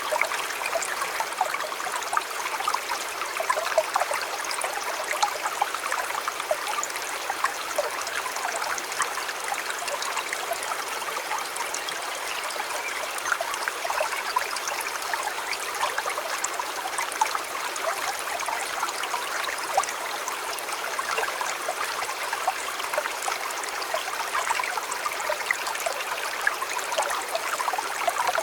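River water flowing steadily, with a constant babble and many small splashes and gurgles.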